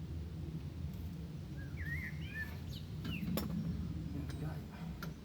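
Steady low outdoor background rumble, with a brief chirping bird call about two seconds in and a few sharp clicks later on.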